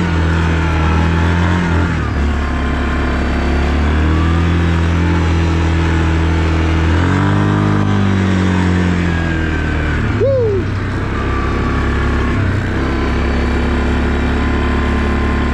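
Yamaha Wolverine 450 ATV's single-cylinder four-stroke engine running steadily under way, with a brief rise and fall in revs about seven seconds in.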